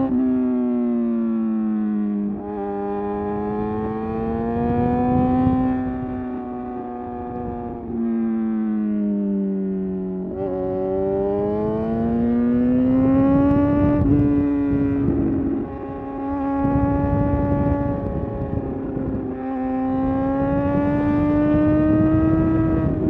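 Suzuki GSX-R750 inline-four engine under way, its revs climbing and falling over several seconds at a time, with sudden steps in pitch at gear changes.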